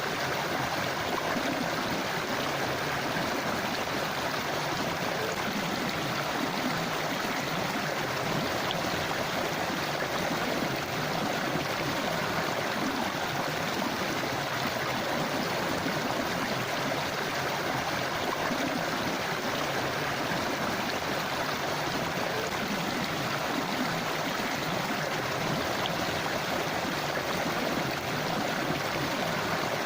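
River water flowing, a steady, unbroken rush with no pauses or changes.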